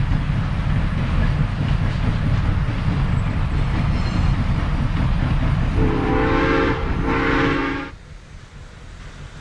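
Southern Railway No. 4501, a Mikado steam locomotive, running with its train in a heavy low rumble, then sounding its steam whistle in two blasts of just under a second each, near the end. The sound drops away sharply just after the second blast.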